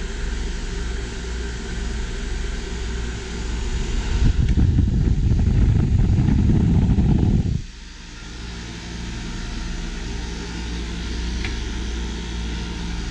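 Steady mechanical hum of a 12-volt DC water-cooled heat pump running, with its radiator fans and circulation pump. About four seconds in, a louder low rumble joins it and cuts off suddenly about three and a half seconds later.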